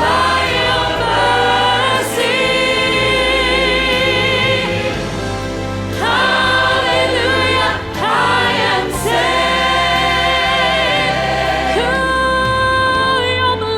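Choir or congregation singing a gospel-style hymn with instrumental accompaniment and steady bass.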